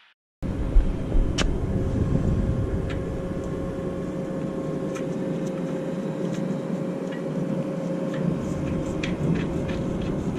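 Steady mechanical running noise with a faint constant whine and scattered light clicks, starting abruptly after a brief silence.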